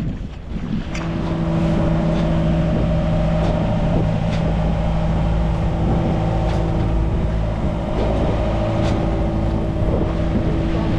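Motorsailer's inboard engine running at a steady speed, a constant drone that starts about a second in after a moment of wind noise.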